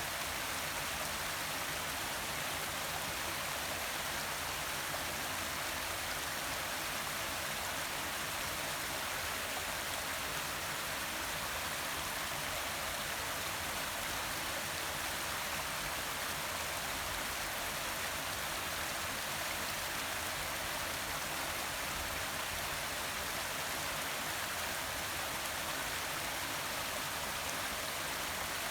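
Forest waterfall: a steady, unbroken rush of falling and splashing water.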